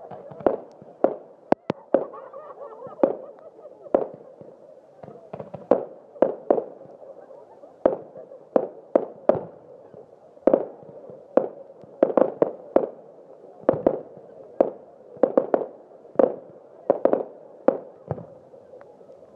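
Fireworks display: aerial shells bursting in an irregular string of sharp bangs, about one or two a second, many in quick pairs.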